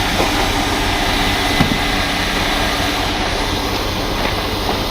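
Heavy diesel truck engine running steadily close by, with a light knock about one and a half seconds in.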